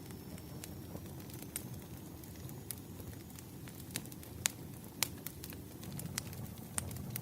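Firewood burning, crackling with irregular sharp pops over a steady low rumble; the loudest pops come about halfway through.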